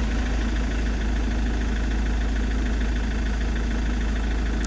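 Iveco Daily diesel engine idling steadily.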